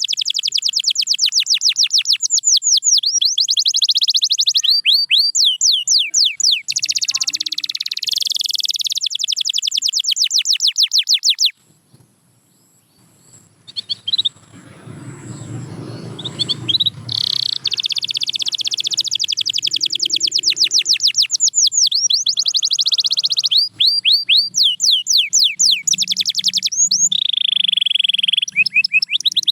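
Domestic canary singing in long runs of very fast, high-pitched trills and rolls. The song breaks off suddenly about a third of the way in and resumes a few seconds later.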